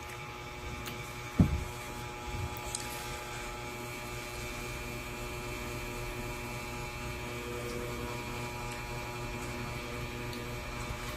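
Steady electrical hum with several fixed tones, and one low thump about a second and a half in.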